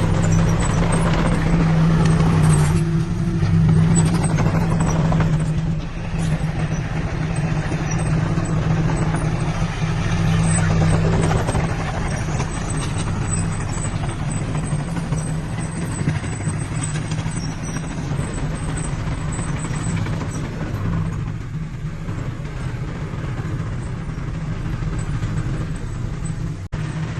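Diesel engine of heavy earthmoving equipment running steadily, a continuous low drone with mechanical noise.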